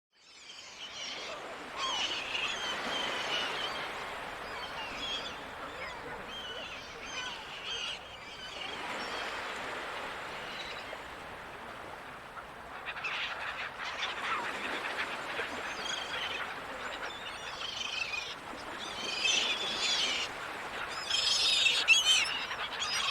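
Seagulls calling again and again over the steady rush of ocean surf. The calls grow thicker and louder near the end.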